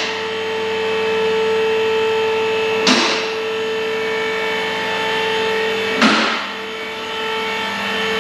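Power cutting tool running at a steady high whine while cutting through the Silverado's exhaust pipe to remove the centre muffler, with a sharp gritty burst about every three seconds as it bites into the pipe.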